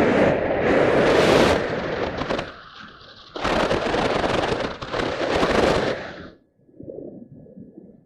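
Wind buffeting the microphone in strong gusts, easing for a moment about two and a half seconds in and stopping abruptly about six seconds in.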